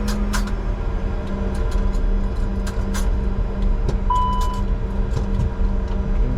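Steady cockpit noise of a Bombardier Challenger 605 taxiing: a continuous hum with a held low tone, scattered small clicks and rattles, and one short beep about four seconds in.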